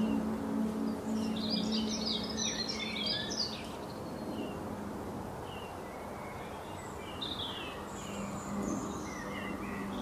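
Small birds chirping and twittering: a busy cluster of short high calls in the first few seconds, then scattered chirps, over a soft steady hiss.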